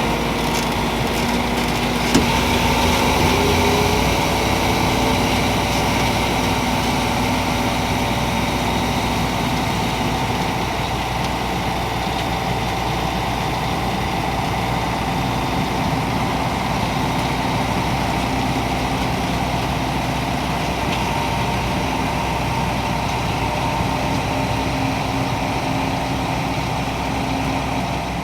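PistenBully 600 Polar SCR snow groomer's Mercedes-Benz OM 460 LA 12.8-litre turbodiesel inline-six running steadily, with a steady high whine over the engine sound.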